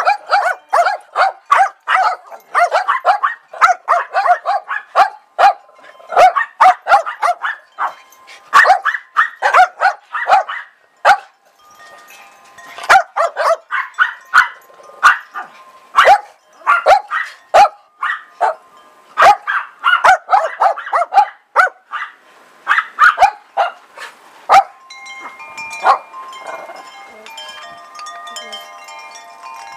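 Small dog barking rapidly in long runs of high-pitched yaps, with short pauses. Wind chimes ring in the pauses, and near the end the barking stops and the chimes carry on alone.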